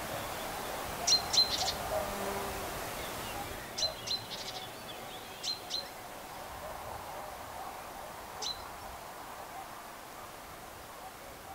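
Birds chirping outdoors: short, sharp calls in clusters of two or three, about a second in, around four seconds and near six, then a single call near eight and a half seconds, over a steady background of ambient noise.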